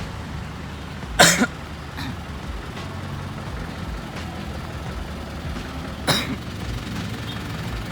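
A person coughs twice, once about a second in and again about six seconds in, over the steady low running of a tow truck's engine.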